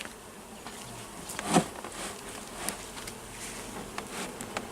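Honey bees buzzing steadily around an opened hive, with a few light knocks and clicks over it, the loudest about one and a half seconds in.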